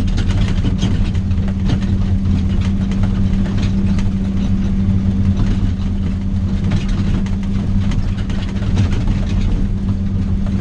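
A vehicle's engine drones steadily from inside the cab while it drives a rough, rocky logging road, with scattered light knocks and rattles.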